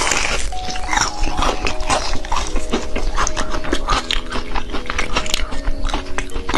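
Close-miked eating sounds of soft mousse cake: wet chewing, lip smacking and mouth clicks, coming quickly and irregularly. A soft melody plays underneath.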